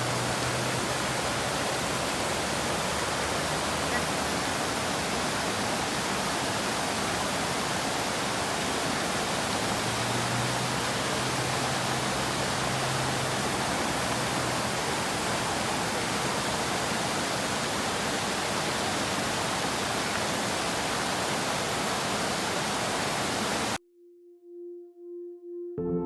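Steady rushing noise that holds constant, then cuts off abruptly near the end, where a soft held musical tone begins.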